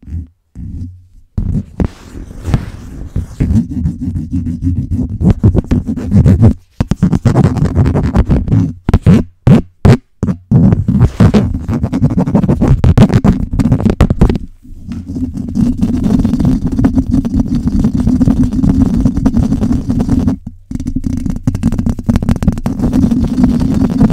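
A microphone being scratched fast and hard, a loud, rough, dense scratching with a heavy low rumble. It stops briefly a few times, with a run of short separate scratches about nine to ten seconds in.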